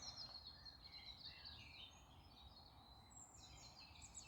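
Faint birdsong: several small birds singing at once in quick, high chirps and trills against near silence.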